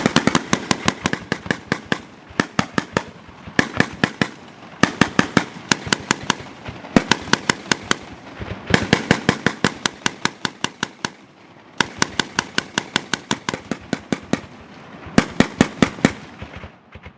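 Mk 19 40 mm automatic grenade launcher fire: repeated bursts of sharp bangs, about six a second, with short pauses between bursts, stopping just before the end.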